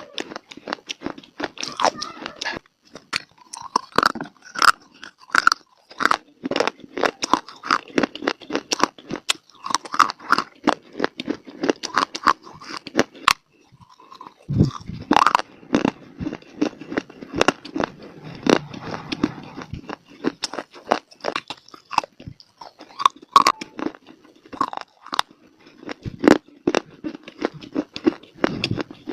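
Close-up crunching and chewing of dry clay (mitti): a dense run of crisp bites and crunches, with a brief pause about halfway through.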